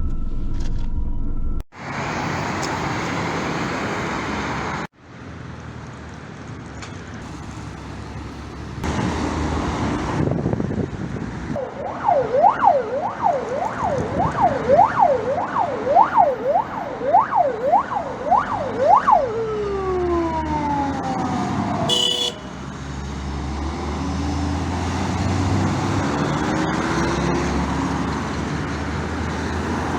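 Fire engine siren sweeping rapidly up and down, about one and a half cycles a second, for some seven seconds, then falling away in a long downward glide. It plays over engine and traffic noise, and the sound cuts off abruptly twice near the start.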